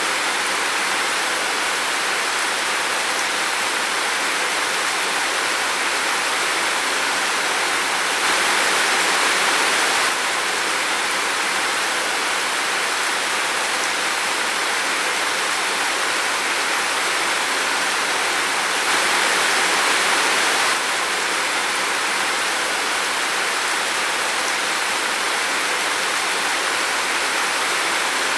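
Steady heavy rain falling in a forest, a dense even hiss with no separate drops standing out. It grows slightly louder for about two seconds, twice.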